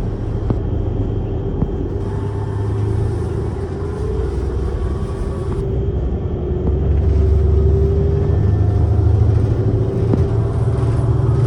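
City bus engine and drivetrain heard from inside the passenger cabin: a steady low drone with a faint whine, growing louder about seven seconds in.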